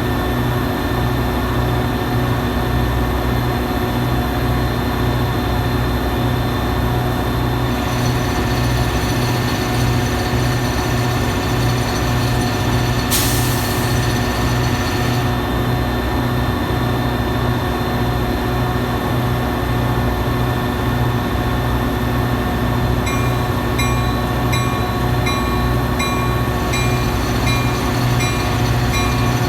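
Metra diesel train running close by, its engine a loud, steady, pulsing drone. A hiss lasting about two seconds comes near the middle, and a repeating ding begins in the last quarter.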